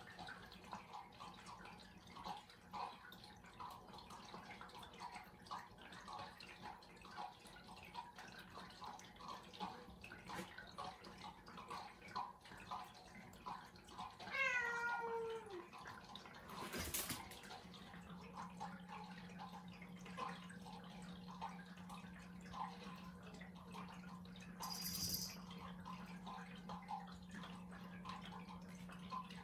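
A domestic cat meows once about halfway through, a single falling call lasting about a second, over faint repeated small ticks and a steady low hum. A sharp click follows a couple of seconds later.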